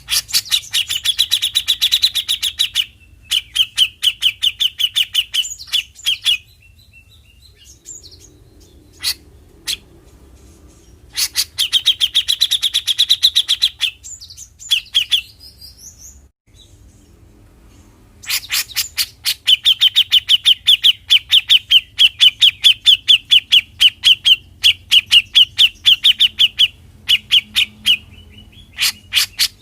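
Cucak jenggot (grey-cheeked bulbul) giving its 'besetan' call: rapid rattling runs of sharp, evenly repeated notes, in several bouts separated by short pauses, the longest bout in the second half.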